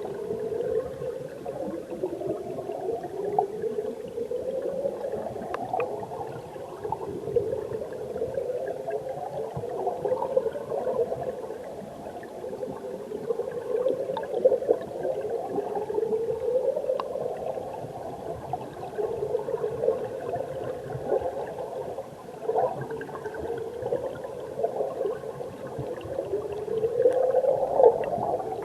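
Mountain stream water heard underwater: a muffled rushing gurgle with swells that rise in pitch every few seconds, and a few faint clicks.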